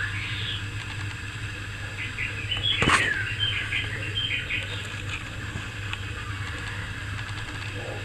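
A small bird chirping, a quick run of short high chirps about two seconds in, over a steady low electrical hum; a single sharp click comes about three seconds in.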